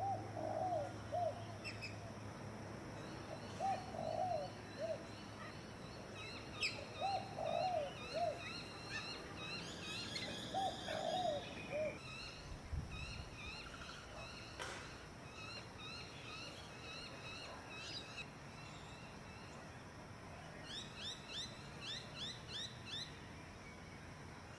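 Birds calling: a low call repeated about every three and a half seconds through the first half, mixed with higher chirps, and a quick run of rising chirps near the end.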